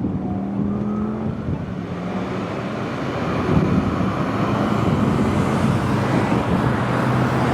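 Rosenbauer Commander fire engine driving past with its engine running and road noise, growing louder in the second half.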